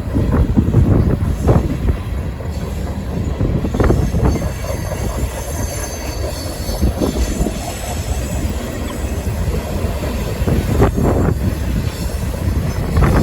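Empty coal train's hopper cars rolling past: a steady low rumble with a sharp wheel clack every few seconds and a faint high wheel squeal.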